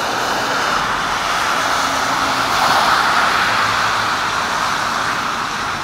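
Steady hiss of rain and traffic on a wet street, swelling about three seconds in and fading again as a car's tyres pass on the wet road.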